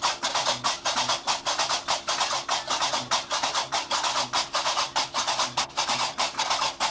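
Gnawa music: qraqeb (iron castanets) clacking in a fast, even rhythm of about five or six strokes a second, with a low bass pulsing underneath.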